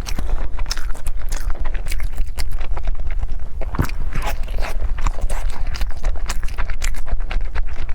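A person biting and chewing food close to the microphone, with irregular wet smacks, small crunches and the odd scrape of a utensil, over a steady low hum.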